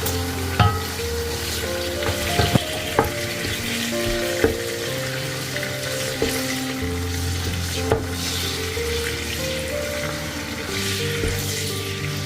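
Food sizzling in a hot pan while it is stirred, with a few sharp clicks of a utensil against the pan, over soft background music.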